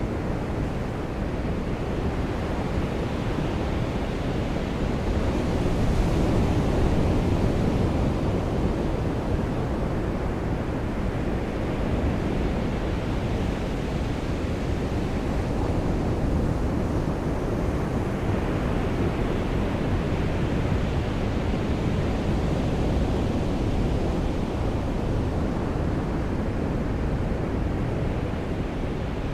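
Surf on a beach: a steady, low rush of waves that swells about six seconds in and again near the middle.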